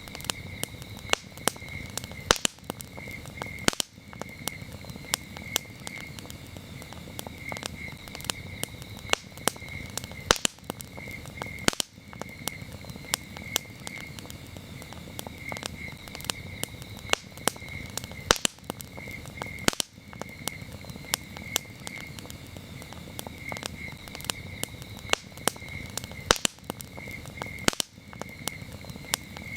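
Wood campfire crackling, with frequent sharp pops and snaps over a low steady rumble. Crickets chirp in repeated pulsing trills throughout.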